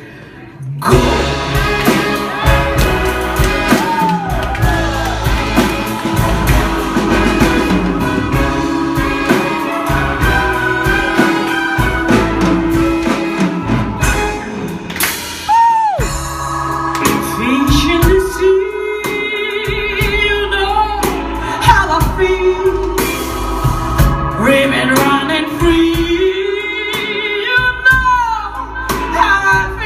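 Music: a voice holds one long note with vibrato over a full instrumental accompaniment. After a brief break it goes on into more sung lines with sliding runs up and down.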